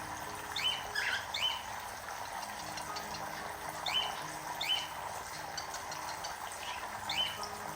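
Cockatiels giving short, sharp chirps, several times and often in quick pairs, over a steady background hiss.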